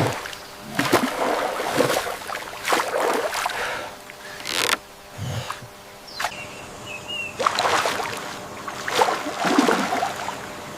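Water splashing and sloshing in a series of irregular surges, about one a second, as poles and bodies move through shallow water.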